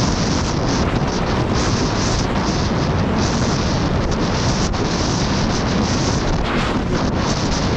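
Heavy wind buffeting the microphone of a jet ski running at speed, with the watercraft's engine and water spray underneath. The noise is loud and steady throughout.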